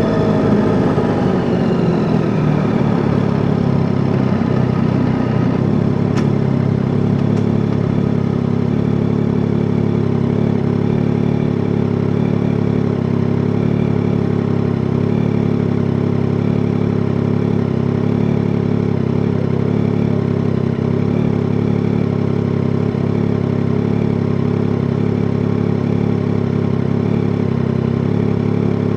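Yamaha Tracer 9 GT's 890 cc inline three-cylinder engine coming off the throttle, its pitch falling over the first couple of seconds, then idling steadily.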